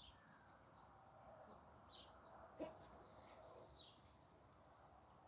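Faint, short bird chirps repeated every second or so over a low background hiss, with a single brief click about two and a half seconds in.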